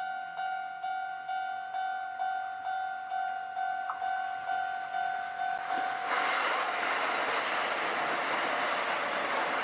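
A railway level-crossing bell dinging steadily, about two strokes a second; about six seconds in it is drowned out by the loud, steady running noise of a Shin-Keisei 8800 series electric train coming through.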